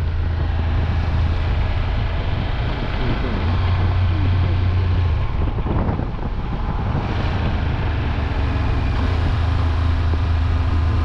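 Triumph Tiger 1200 Rally Explorer's three-cylinder engine running steadily while riding, with road and wind noise buffeting the microphone.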